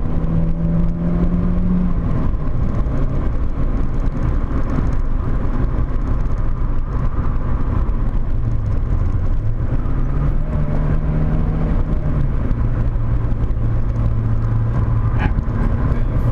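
Volkswagen Corrado 1.8 16V's four-cylinder engine running under way, heard inside the cabin over heavy road and wind noise. Its pitch drops about two seconds in, comes back up around ten seconds in, and steps down to a lower steady note about twelve seconds in.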